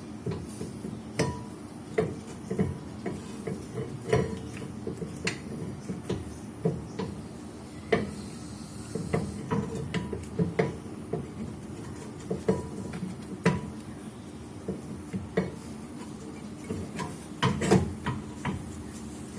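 Irregular metal clinks and knocks of hand tools against car brake parts, about one or two a second, over a steady low hum, with a quick cluster near the end.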